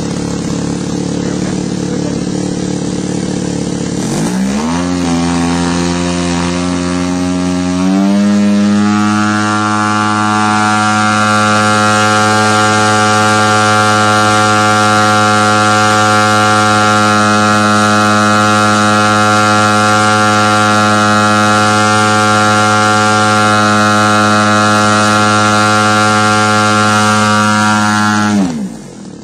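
3MM TOC model airplane engine run up from idle: the throttle opens about four seconds in, the pitch climbs, and at about eight seconds it steps up to full throttle and holds steady for about twenty seconds before being chopped back near the end. This is a full-power check of the high-end needle after leaning it a quarter turn, reaching about 6390 rpm.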